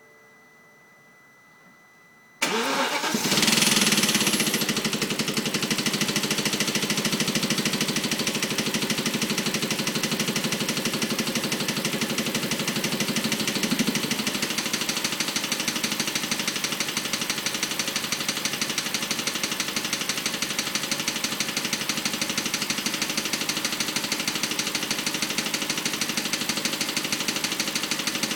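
BMW 545i's V8 engine cranking and catching about two seconds in, its revs flaring briefly before settling into a steady idle with a continuous fast clicking, the weird noise the owner is trying to track down.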